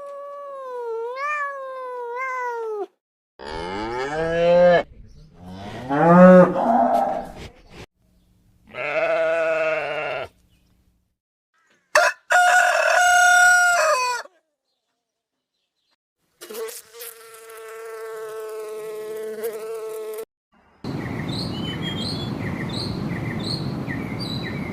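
Farm animal calls played one after another: about seven short separate calls, each cut off abruptly with silent gaps between.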